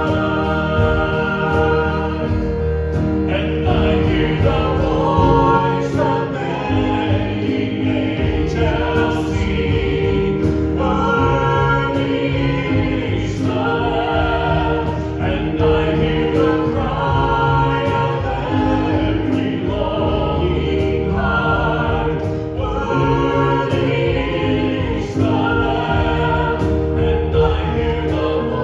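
Group of voices singing a hymn with instrumental accompaniment.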